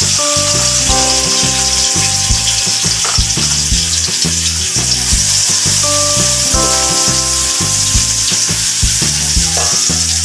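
Minced garlic and onion sizzling in hot oil in a wok, with a steady loud hiss, stirred with a spatula. The garlic is already fried golden and crisp.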